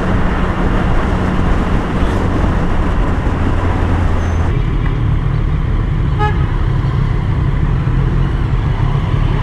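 Triumph Street Triple 765's three-cylinder engine running on the move, with wind rush on the helmet mic. About halfway through, the wind noise drops off and the engine note changes as the bike eases off. A short horn toot sounds about six seconds in.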